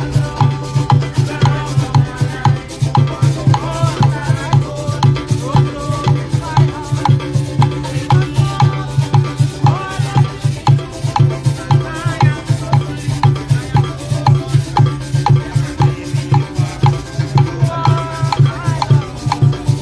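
Live percussion-led music played by a group, with shakers and drums keeping a steady, fast beat under a melody line.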